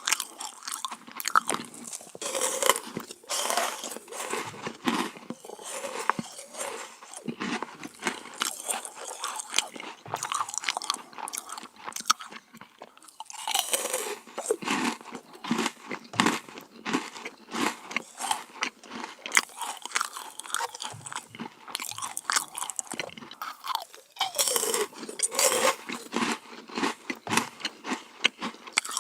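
Close-miked biting, crunching and chewing of crisp meringue cookies, a dense crackle of small crunches that eases briefly twice, about twelve seconds in and again near twenty-four seconds.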